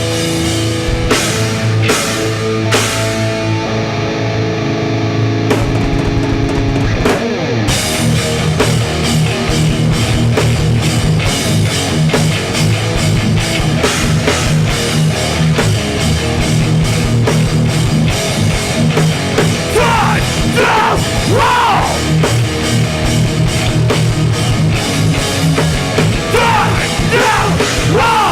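Hardcore punk band playing live: distorted electric guitars and bass with a drum kit, no vocals. Held chords with a few cymbal hits open the passage, and the full band with steady drumming comes in about eight seconds in.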